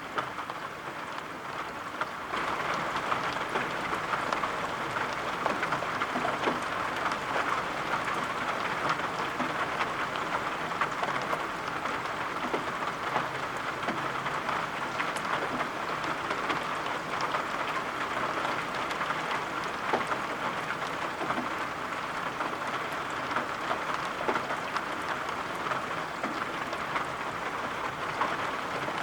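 Steady rain with many fine drop ticks, becoming a little louder about two seconds in.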